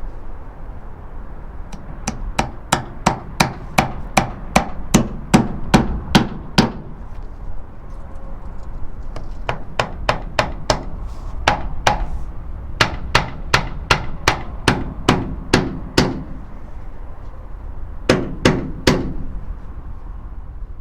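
Hammer driving a nail into a wooden block on a flatbed trailer, fastening the blocking so it cannot vibrate loose. The strikes come in several runs of quick blows, about two or three a second, with short pauses between, over a steady low rumble.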